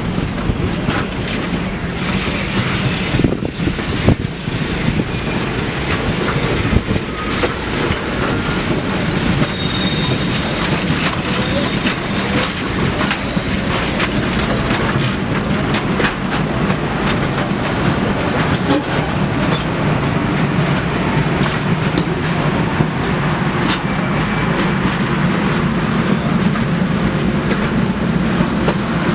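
Passenger train rolling past steadily, its wheels clicking over the rail joints, with a faint brief wheel squeal now and then.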